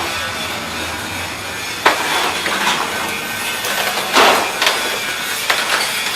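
Large electric roll-up steel door rising, its metal slats clattering over a steady running noise with irregular sharp knocks.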